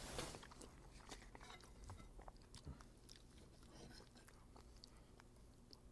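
Near silence with faint chewing and a few small soft clicks, like cutlery on a plate.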